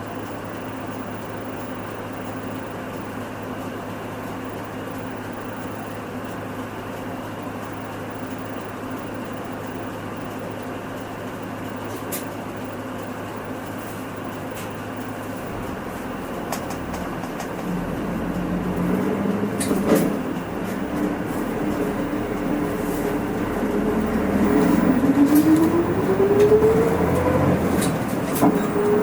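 Hino Rainbow II bus's diesel engine idling steadily with the bus at a standstill, then about halfway through it picks up and the bus moves off, the engine note climbing in pitch as it accelerates.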